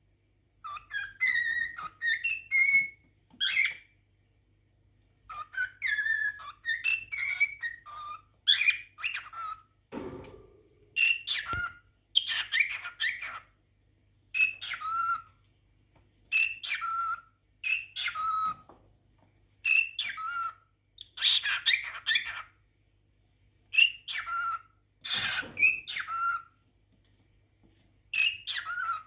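Male cockatiel singing a courtship song of chirps and whistled notes, in short phrases of a second or two broken by brief pauses.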